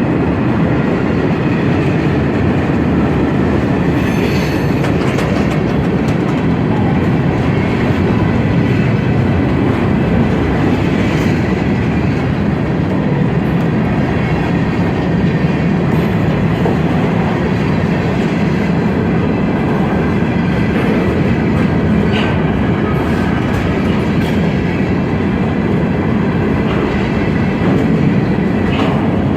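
Freight train cars rolling past: a steady rumble of steel wheels on rail, with light clicks over the rail joints.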